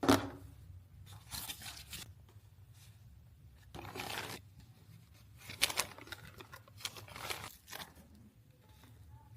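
Toy playset packaging being torn open and handled: a sharp rip right at the start, the loudest sound, then several shorter tearing and crinkling bursts every second or so.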